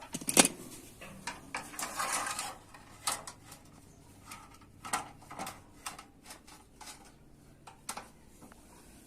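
Irregular light knocks and clicks, with a short scraping sound about two seconds in: small objects being handled and set down.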